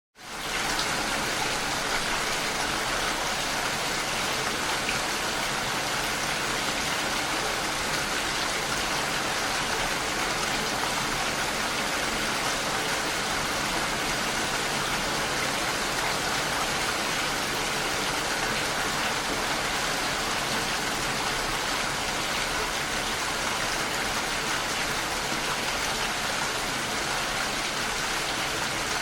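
Steady rain, an even hiss of falling drops that fades in from a brief silence within the first second.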